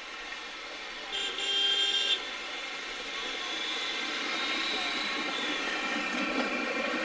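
A locomotive gives one whistle blast of about a second, starting about a second in and cutting off sharply. Then the running sound of a train grows steadily louder as it approaches.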